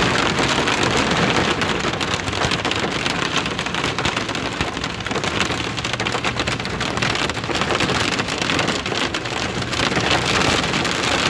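Hail pelting a car, a dense, steady clatter of countless small impacts.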